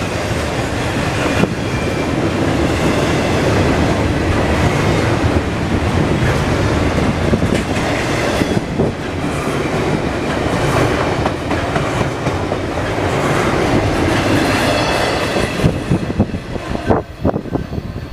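Container-on-flatcar freight cars of an intermodal train rolling past with a steady rumble of steel wheels on rail and a clickety-clack over the rail joints. Near the end the sound thins into a few separate clacks as the last cars go by.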